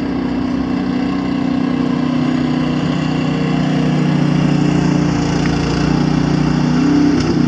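A 25-horsepower snowblower's engine running steadily under load as it works through deep, wind-packed snow, its pitch shifting slightly a few seconds in and again near the end.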